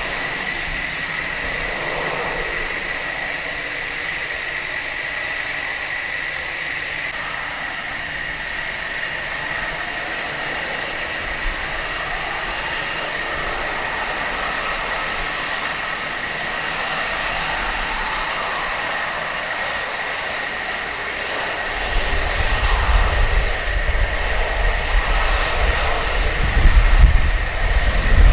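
Jet engines of a cargo airliner running with a steady high whine over a broad hiss. About two-thirds of the way in, a heavy, uneven low rumble comes in and the sound gets louder.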